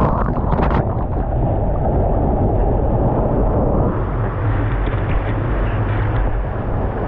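Loud, steady rush of wind and ocean surf buffeting the microphone, with a heavy low rumble and a few small clicks in the first second.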